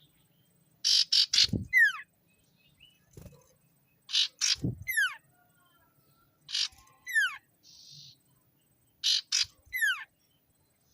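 A sirtu (cipou) songbird calling hard as if challenging a rival. It repeats the same phrase four times, each one two or three harsh rasping notes followed by a quick run of downward-sliding whistles.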